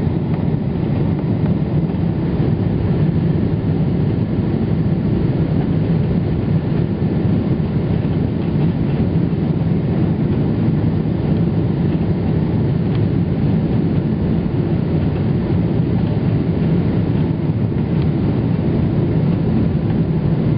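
Steady, loud rumble inside the cabin of a Boeing 777-300ER airliner on approach: engine and airflow noise from its GE90 turbofans, with no sudden changes.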